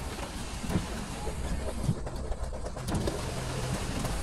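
Heavy rain pattering on a car's roof and windshield with a few louder drops, heard from inside the car, over the low steady hum of the idling engine.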